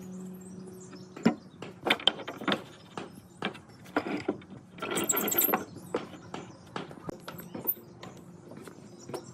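A steady low hum cuts off about a second in. Then come irregular knocks and clicks of wooden parts being handled, with a scraping stretch around the middle.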